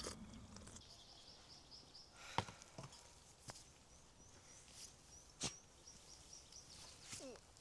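Two sharp knocks or snaps, like wood cracking, about three seconds apart, with a few fainter clicks. Behind them a small bird repeats quick, short high notes.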